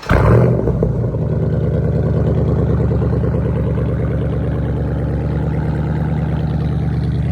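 SRT Jeep's V8 starting: it catches with a brief rev flare, then settles into a steady, loud idle.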